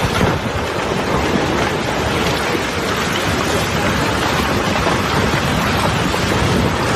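Loud, steady rushing noise with no clear pitch.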